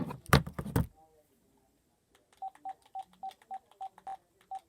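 A loud rustling knock of handling in the first second, then a quick run of short identical keypad beeps, about three a second: a phone's touch tones as someone taps keys.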